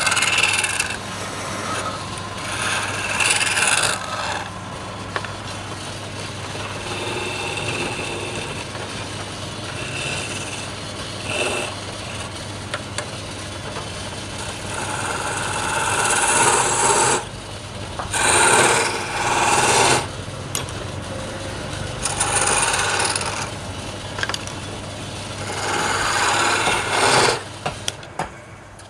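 Wood lathe running with a steady low hum while a tool scrapes against the spinning wood in repeated bursts of a second or two each.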